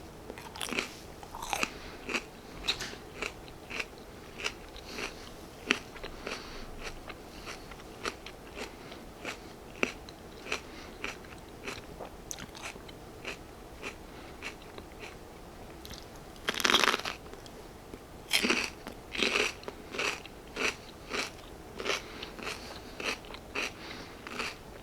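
Close-miked chewing of raw mini bell pepper: a run of crisp crunches, several a second, with a few longer, louder crunches past the middle.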